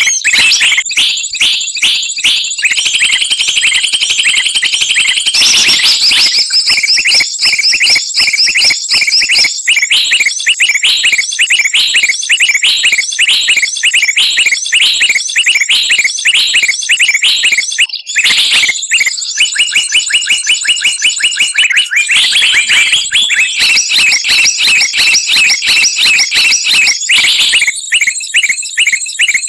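Bird lure recording: loud, dense chatter of many small songbirds layered together, rapid repeated chirps and trills without a break, over a thin high steady tone. Near the middle it drops out for a moment.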